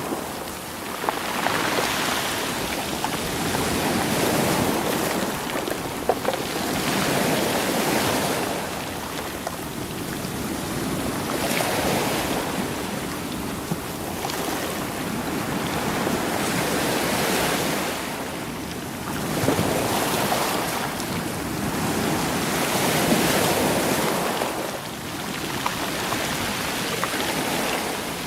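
Sea waves washing in and out over rocks and rolling stones, each surge swelling and ebbing every few seconds, with a few sharp clicks of stones knocking together.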